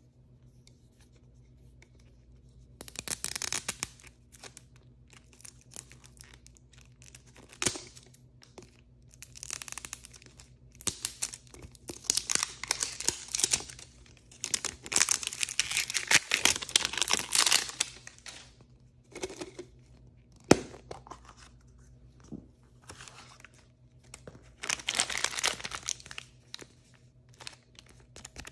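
Blind-bag packaging being torn open and crinkled in irregular bursts, with a few sharp clicks, the loudest about twenty seconds in.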